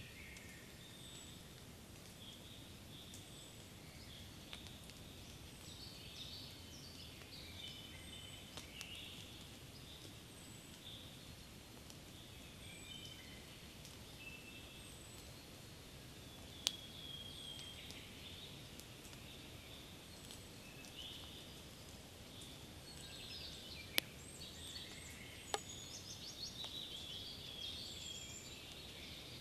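Spring forest birdsong: several small birds singing and calling at once with short high chirps and trills, over a faint steady background hiss. A few sharp clicks cut through, the loudest about two-thirds of the way in.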